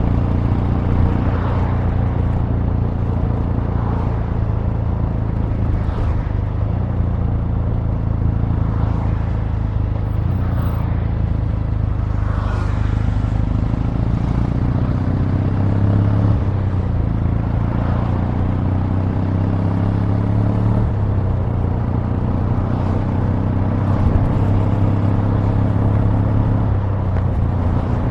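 Kawasaki W800's air-cooled parallel-twin engine running through its exhaust while being ridden. The pitch shifts up or down every few seconds as the engine speed changes.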